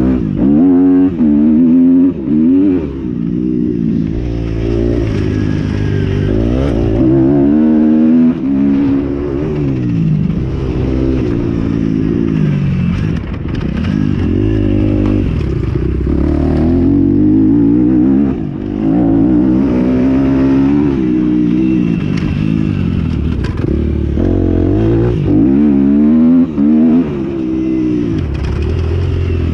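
Motocross bikes revving hard, their engine pitch climbing and dropping again and again as they accelerate and change gear, at times more than one engine at once. Loud.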